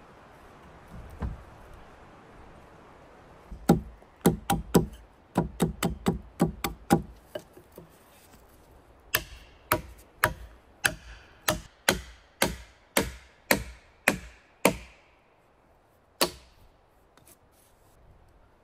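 Hand tool striking wood: a quick, irregular run of knocks, then a steady series of about two blows a second, and one last knock near the end.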